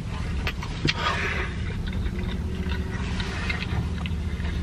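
Close-up chewing and wet mouth sounds of someone eating a breakfast sausage, with scattered small clicks and a louder smacking patch about a second in, over a steady low hum.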